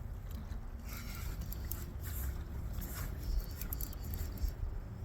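Wind buffeting the microphone in a steady low rumble, with scattered light ticks and scrapes on top.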